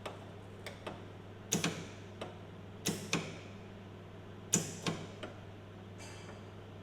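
Irregular sharp metallic clicks and knocks from hand work on car-body sheet metal, about a dozen in all, several with a short ringing tail, over a steady low hum.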